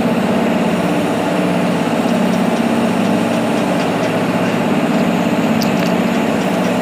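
Diesel locomotive engine running steadily, a loud, even drone.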